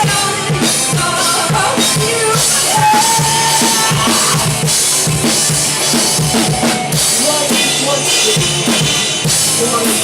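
Live band playing a song, with a full drum kit of bass drum and snare driving a steady beat under sustained pitched instruments.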